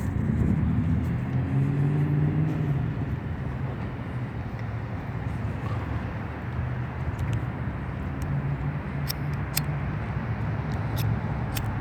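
A motor vehicle's engine hum with steady road noise, its pitch rising slightly in the first few seconds, and a few sharp clicks near the end.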